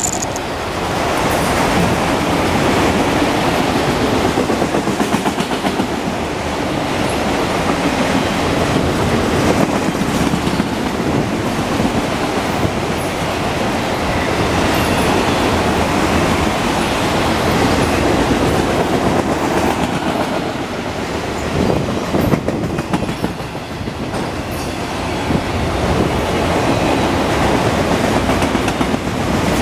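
Freight train of enclosed auto rack cars rolling past: a steady rumble of steel wheels on the rail with a running clickety-clack of the wheel sets.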